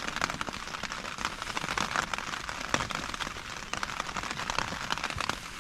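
Rain pattering steadily: a dense, irregular patter of small ticks with no let-up.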